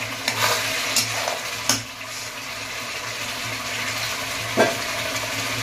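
Onion-and-spice masala with freshly added tomato paste sizzling in a nonstick kadai as a spatula stirs it, with several sharp clacks of the spatula against the pan, the loudest near the end.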